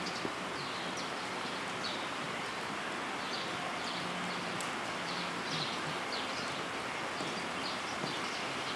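Many short, high chirps, like small birds, repeating irregularly over a steady hiss.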